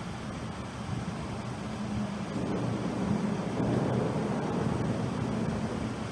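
An engine passing by, its low hum growing louder over a few seconds and then fading, over steady wind noise.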